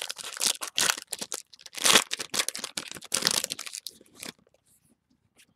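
A trading card pack wrapper being torn open and crinkled as the cards are pulled out, a dense rustling that stops about four seconds in.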